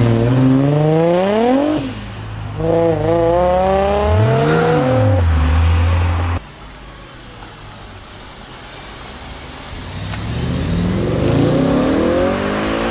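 Performance car engines revving and accelerating hard away, the pitch climbing steeply twice with a quick rev blip between. About six seconds in the sound cuts off abruptly, and near the end another car's engine builds up as it pulls away.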